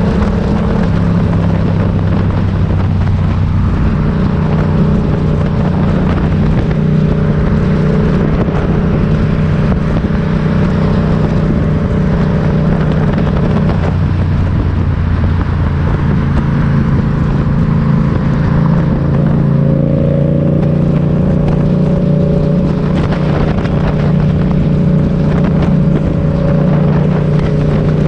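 Motorcycle engine running steadily while riding, its note shifting up and down a few times.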